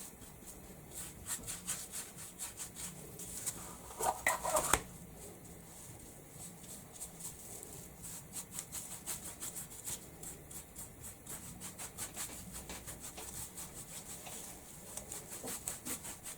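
Stiff paintbrush dry-brushing paint onto a wooden chopping board: rapid, repeated scratchy scrubbing strokes, several a second, with a brief louder noise about four seconds in.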